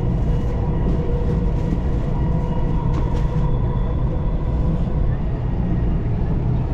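Dubai Metro electric train running between stations, heard from inside the carriage: a steady rumble of wheels on track with a faint, even motor whine.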